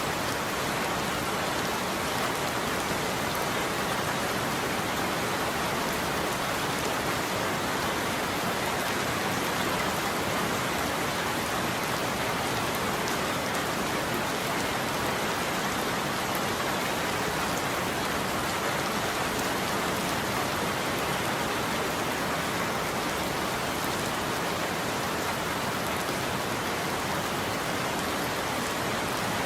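Steady heavy rain falling on a surface, a dense even patter with no thunder and no change in strength.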